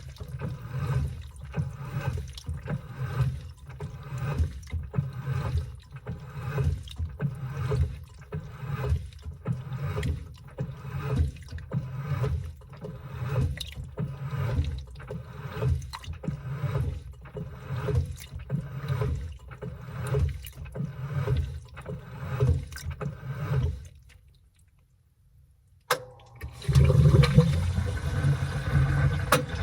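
Washing machine agitating a load of laundry in water, a regular rhythmic sloshing. Near the end it stops for about two seconds, then starts again, denser and louder.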